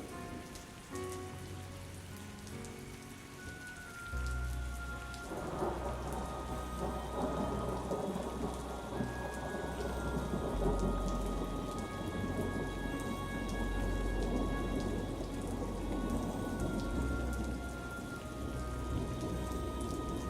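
Steady rain falling, with a deep rolling thunder rumble that sets in about four seconds in and carries on to the end.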